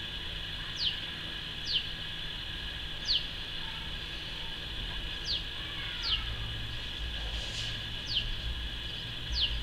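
A small bird calling in a garden: a string of short, high notes, each sliding quickly downward, repeated about once a second at an uneven pace, over a steady background hum.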